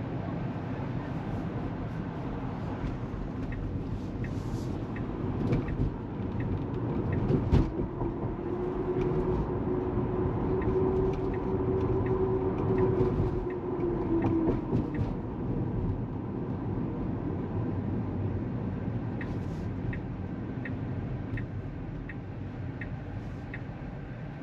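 Road and tyre noise inside a Tesla Model 3 cabin while driving. A turn signal ticks at about one and a half ticks a second, once early and again near the end, and a steady hum rises for several seconds in the middle.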